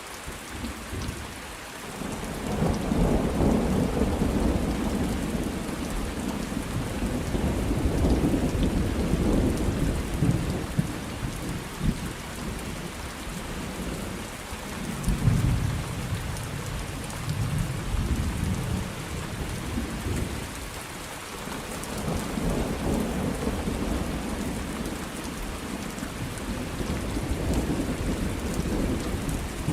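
Steady rain with rolling thunder: low rumbles swell and fade several times over the rain's even hiss.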